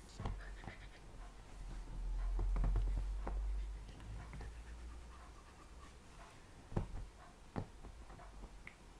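Scattered light clicks and scuffling from an African grey parrot playing rough with a hand and nipping at the fingers, with two sharper clicks near the end. A low handling rumble swells about two to four seconds in.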